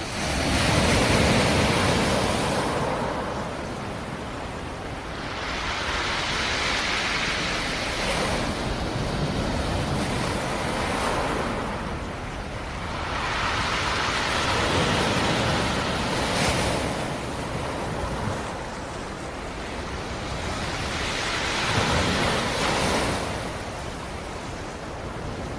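Black Sea waves breaking on the shore, one surge after another about every five seconds, each rising and washing back. The loudest wave breaks right at the start.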